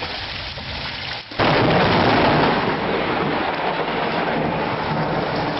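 A dense, steady roar of storm noise, rain-like and without any tone. It dips for a moment, then jumps much louder about a second and a half in and stays loud.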